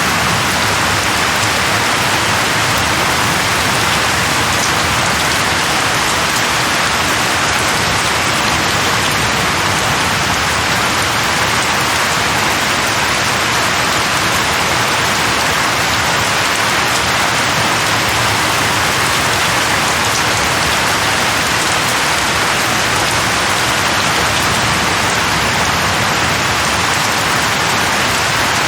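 Steady rain falling, an even hiss of drops with no thunder or change in level.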